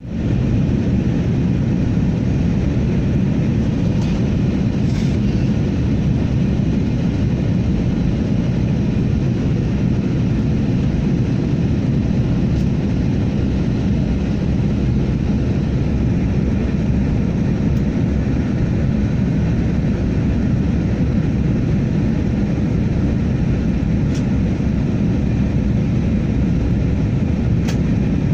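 Steady cabin noise inside an Airbus A321-200 airliner on its approach to landing: the jet engines and rushing airflow make a constant low noise, with a few faint clicks.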